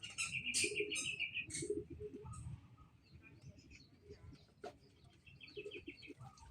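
White-rumped shama chirping. A rapid run of loud notes comes in the first second and a half, then it goes quieter, with one sharp click about two-thirds through and another short run of chirps near the end.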